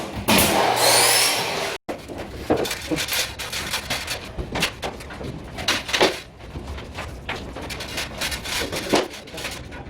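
Construction work on wood: a loud noisy scraping or rasping stretch with two short high rising squeaks. It breaks off abruptly, then gives way to irregular knocks, taps and scrapes of timber and hand tools.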